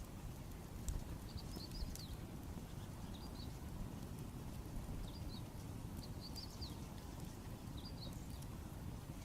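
Wood campfire crackling with scattered sharp pops over a steady low rumble, while small birds chirp in short bursts in the background.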